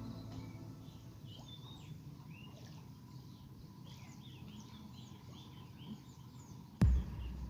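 Small birds chirping, many short calls over a faint outdoor background, with a sharp knock near the end.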